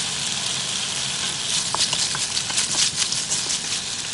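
Cut potato pieces sizzling in hot oil in a nonstick wok, with a steady hiss and crackling pops that grow busier about halfway through.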